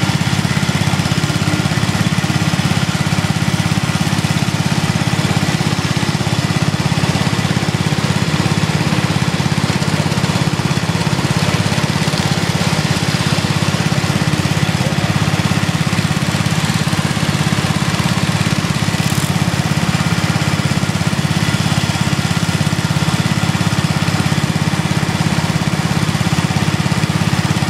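Small engines of lawn and garden tractors running steadily, a continuous loud throbbing drone with no break.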